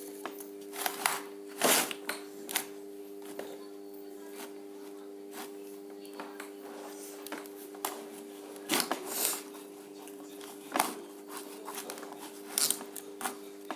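Hands working with materials: irregular rustles and short crackles, loudest about two seconds in and again near nine, eleven and twelve and a half seconds, over a steady hum.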